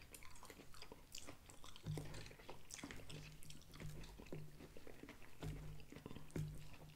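A man chewing food with his mouth close to the microphone, with faint clicks of a fork against the plate as he picks up green beans. Short low hums come and go from about two seconds in.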